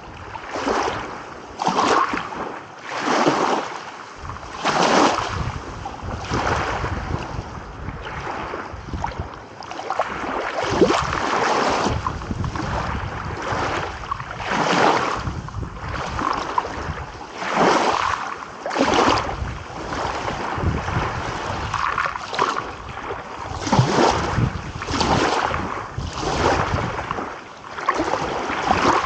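Small waves washing onto the shore one after another, each splash a brief surge of hiss about every second or two, over a low rumble of surf.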